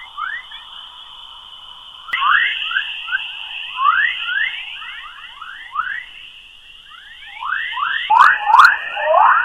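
NASA spacecraft recording of electromagnetic waves in space, converted into audio. Many quick rising chirps overlap over a steady high tone, with a sharp click about two seconds in and two more near the end.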